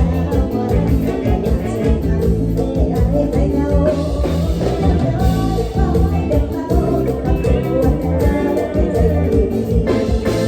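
Live Isan mor lam band music in the lively toei (เต้ย) style, with electric bass and drums keeping a steady beat.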